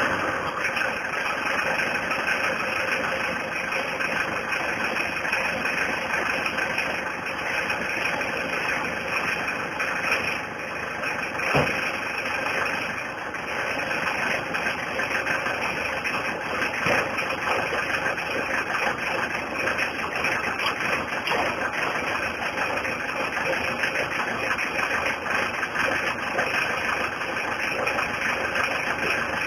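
Mazda 626 diesel engine idling steadily, heard at the exhaust. A single sharp click comes about twelve seconds in.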